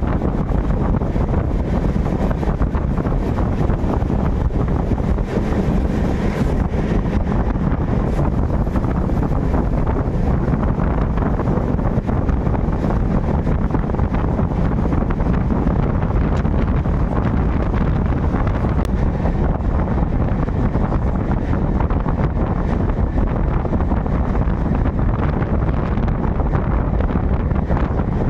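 Express passenger train running: a steady low rumble of the coach and wheels, with a rush of wind over the microphone.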